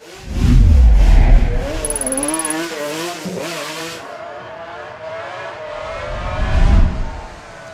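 A performance car's engine revving hard under acceleration, with a wavering pitch. It is loudest in the first second or so, eases off, then surges loud again near the end.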